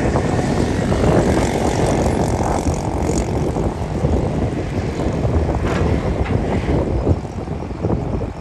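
Heavy earthmoving machine's diesel engine running steadily under load, with a few short clanks a little past the middle.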